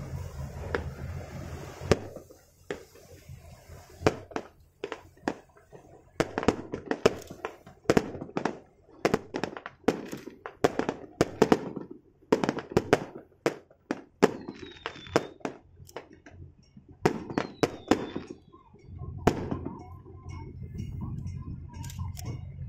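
Firecrackers going off in a run of sharp, irregular bangs, a few each second, ending a few seconds before the end. A low engine rumble lies under the start and comes back near the end.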